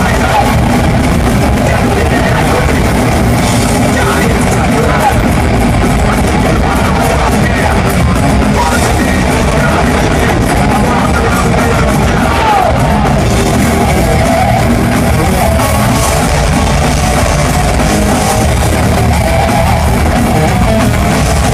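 Thrash metal band playing live through a concert PA: heavy distorted guitars and fast drums, loud and continuous, heard from the audience.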